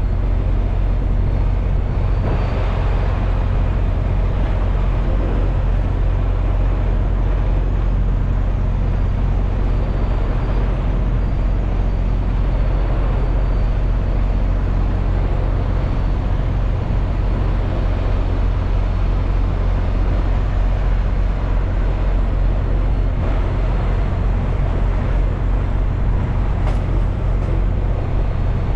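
Diesel semi-truck running at a steady speed: an even, loud low engine hum under continuous road and tyre noise, with no change in pace.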